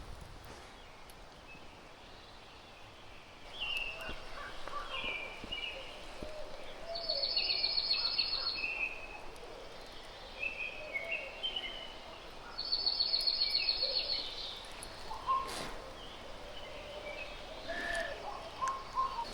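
Morning chorus of several wild songbirds: scattered chirps and whistled notes, with a fast, high trill of rapidly repeated notes heard twice, each lasting about a second and a half.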